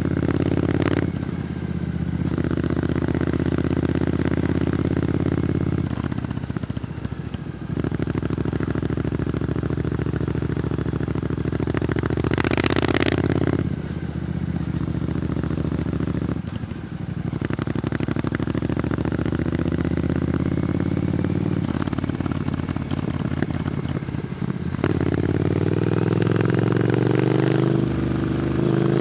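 Triumph Scrambler 900's parallel-twin engine running through an Arrow exhaust under way, the revs climbing and dropping several times as the rider works the throttle and gears. There is a short rush of noise about halfway through, and the revs climb steadily near the end.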